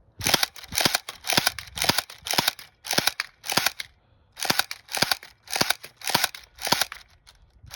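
Elite Force electric HK P30 airsoft pistol firing semi-automatic: a steady string of short sharp shots about two a second, with a brief pause about four seconds in.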